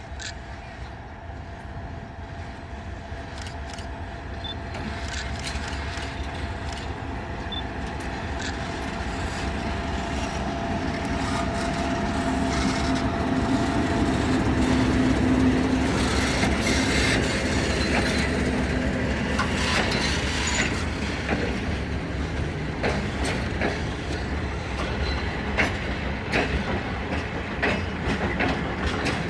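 Freight train passing on the rails: the locomotive's steady hum grows louder to its peak about halfway through, then the wagons' wheels clack over the rail joints in a run of sharp clicks.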